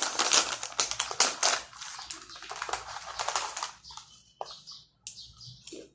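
Plastic snack bag of Piatos roast beef potato chips crinkling and crackling as it is handled. The crackling is dense for about the first two seconds, then thins to scattered crackles.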